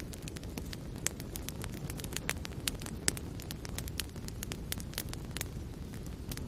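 Wood fire burning in a fireplace: a steady low rumble of flames with frequent, irregular sharp crackles and pops, one louder pop about three seconds in.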